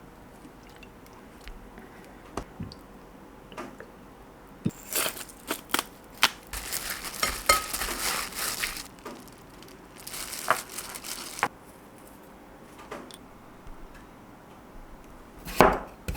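Kitchen food-prep handling: scattered light clicks and clatter, then two stretches of crinkly rustling, with knife chopping on a cutting board starting near the end.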